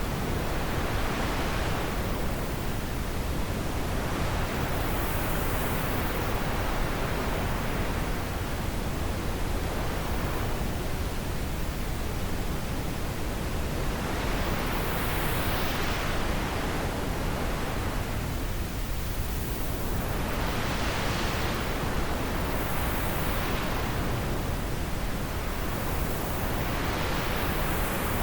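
Steady rushing wind, with soft gusts swelling and fading in the higher pitches every few seconds.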